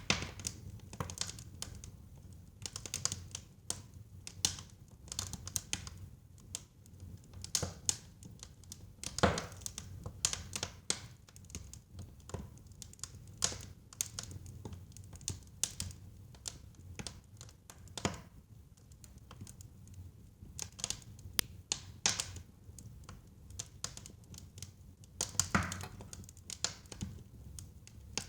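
Burning firewood crackling, with irregular sharp snaps and pops over a low steady rumble of the fire; two louder pops come about nine seconds in and near the end.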